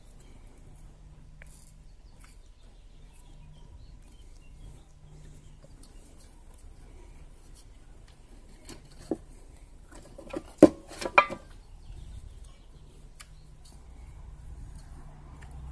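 Light handling of wires and hand tools, with a sharp metallic click about nine seconds in and a quick cluster of louder clicks a second and a half later.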